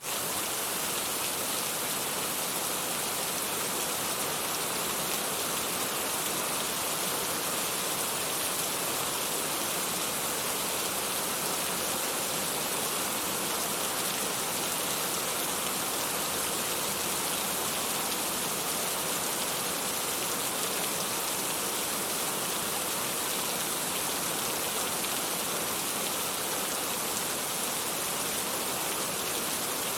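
Steady rainfall, an even hiss of many drops.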